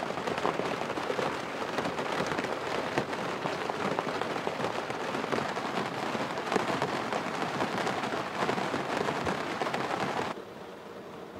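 Steady rain pattering on a sailboat's dodger, a dense hiss of small drop ticks. It drops abruptly to a softer level about ten seconds in.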